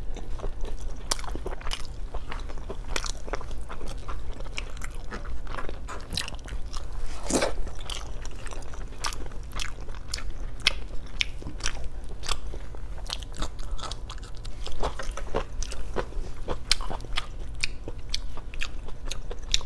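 Close-miked chewing of a mouthful of adobo: a steady run of small, sharp wet clicks and smacks from the mouth, over a faint low hum.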